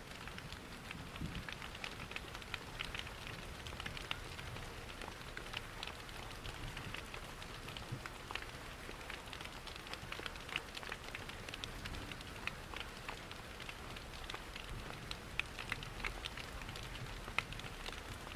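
Steady rain mixed with a crackling wood fire: an even rushing hiss dotted with frequent small sharp crackles and drip-like ticks, over a soft low rumble.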